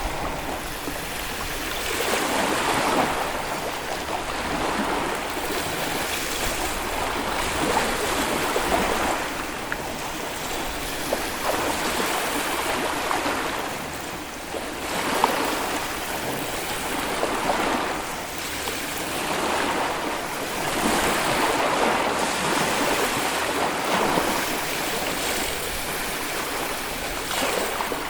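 Small Baltic Sea waves washing onto a beach, a steady rush of surf that swells and eases every few seconds.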